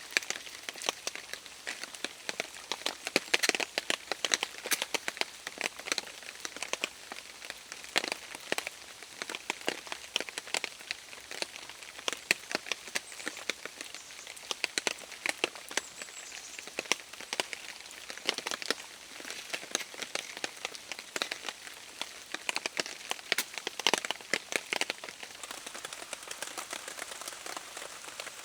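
Rain falling on a surface, a steady hiss with many irregular sharp taps of drops.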